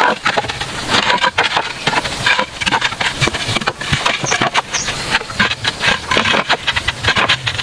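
A dense run of irregular knocks and scrapes, many per second, rising and falling in loudness.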